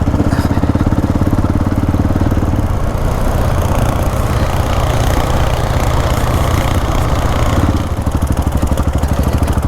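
Single-cylinder dual-sport motorcycle engine running under way with a steady pulsing beat. The throttle changes about three seconds in and again near eight seconds.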